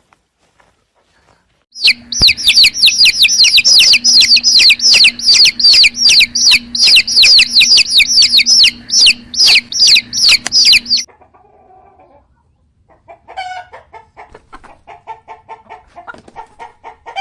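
Chickens calling: a loud run of rapid, high-pitched, downward-sliding peeps, about four a second, starts about two seconds in and stops suddenly near eleven seconds. Softer, lower clucking follows near the end.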